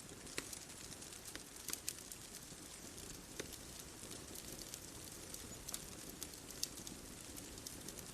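Wood bonfire crackling: irregular sharp pops and snaps, a few a second, over a soft steady hiss.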